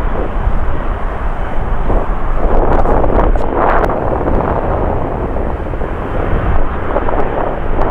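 Jet airliner engines running loud on the runway: a deep, noisy rumble that swells about three seconds in and then eases back.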